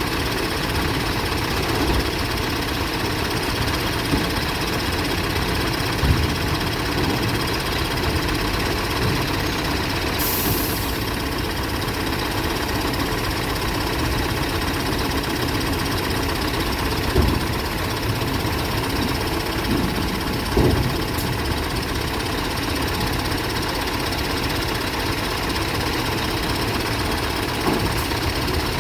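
An engine idling steadily, with a few short knocks scattered through and a brief high hiss about ten seconds in.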